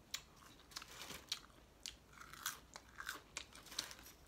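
Person chewing and biting into fried chicken close to the microphone: a string of short, irregular crunches and mouth clicks.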